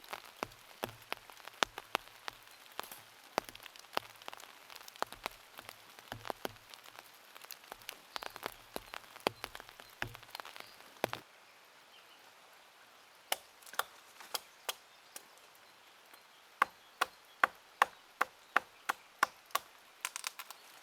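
Hand axe chopping wood: a string of irregular blows for the first eleven seconds, then after a pause a fast run of about nine hard chops at over two a second near the end.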